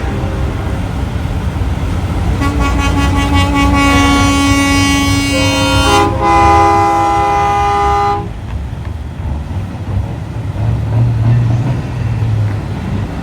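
Semi-truck air horns blowing a multi-tone chord for about six seconds, starting a couple of seconds in, the chord shifting partway through, then cutting off. A low rumble of truck engines runs underneath.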